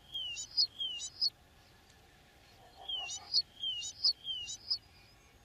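A small songbird singing two short phrases, about a second and a half apart. Each phrase is a few repeated notes: a whistle falling in pitch, followed by a brief buzzy chirp.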